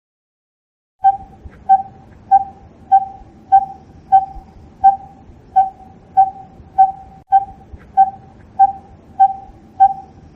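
A bird calling one short, hollow, whistle-like note over and over at a steady pace, about one and a half notes a second. The calls begin about a second in.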